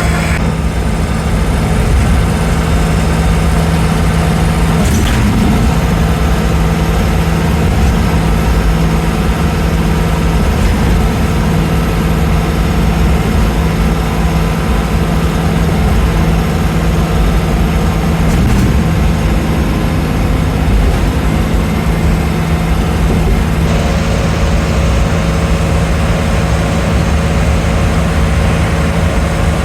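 Vehicle engine running steadily under a constant low hum of road and engine noise.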